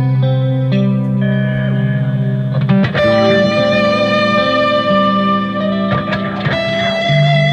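Electric guitar, a Squier Classic Vibe '60s Stratocaster through effects, playing slow, ringing atmospheric notes over a looped backing. A new chord strikes about three seconds in, and a high held note wavers with vibrato near the end.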